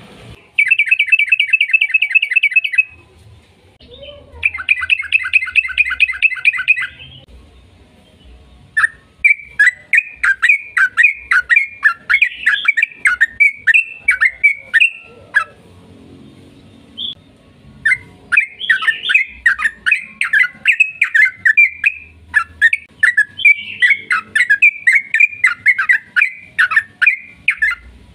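Yellow-vented bulbul (trucukan) singing. First come two rapid, even trills of a few seconds each, then two long runs of quick, varied, chattering notes with short pauses between them.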